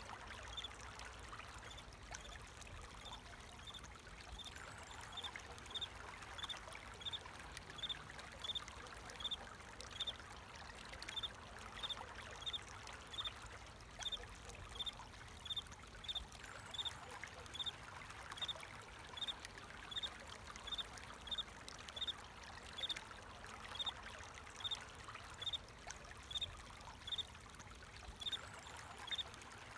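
Water flowing and trickling steadily, with a cricket chirping evenly over it, about one and a half high chirps a second.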